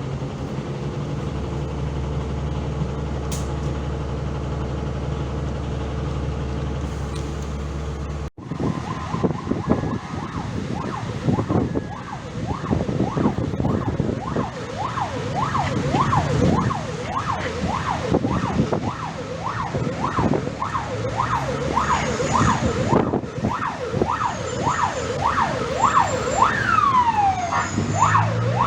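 A vehicle engine running steadily for about eight seconds, then a fire engine siren on a fast yelp, rising and falling about twice a second, with one long falling sweep near the end.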